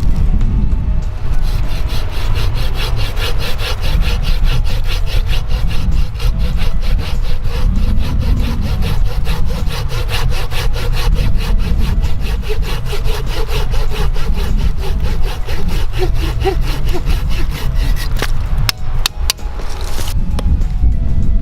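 Hand saw cutting through firewood in steady, rhythmic strokes that stop near the end, followed by a few separate knocks.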